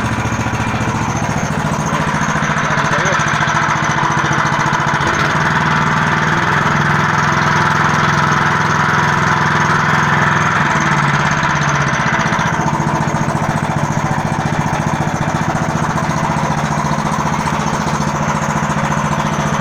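15 hp engine of a homemade all-terrain vehicle running steadily. Its revs rise about two seconds in and fall back a little past halfway.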